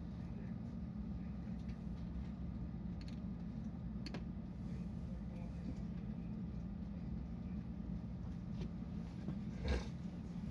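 Steady low hum inside a stopped JR West 223 series electric commuter train, from its running onboard equipment, with a few faint clicks and one short knock near the end.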